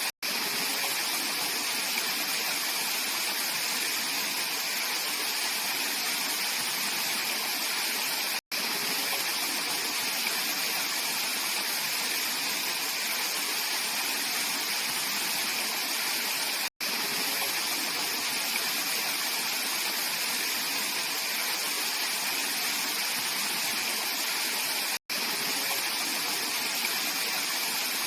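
Mountain valley stream flowing, a steady rush of water that cuts out for an instant about every eight seconds.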